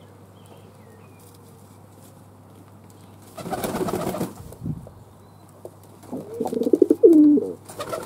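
Fantail dove cooing, a low pulsing coo about six seconds in, after a brief noisy rush about three and a half seconds in, over a steady low hum.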